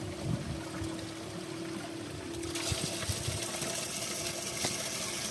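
Running, splashing water from a spring; it turns brighter and louder about halfway through. A faint steady hum sits under it in the first half.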